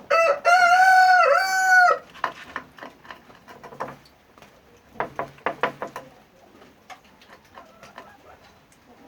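A rooster crowing once, loud, for about two seconds. A few short sharp clicks follow a few seconds later.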